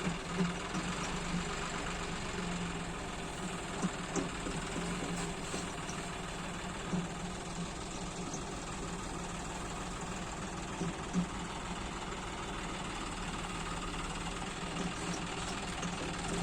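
Tractor diesel engine idling steadily, with a few short knocks scattered through it.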